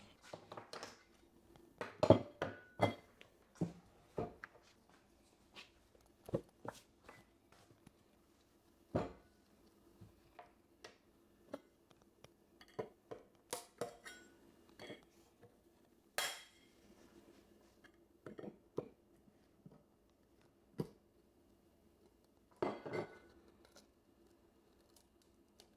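Metal joint knife scraping and tapping as wood filler is spread into gaps in a kitchen cabinet: scattered short scrapes and clicks, a few louder ones, over a faint steady hum.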